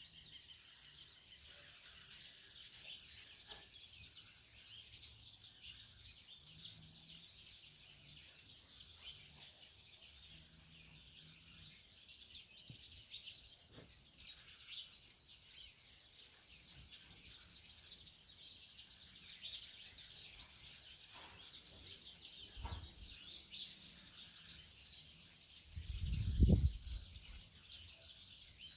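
Many small birds chirping and twittering at once, a dense, continuous high-pitched chatter of overlapping calls. A short low rumble, the loudest sound, comes near the end.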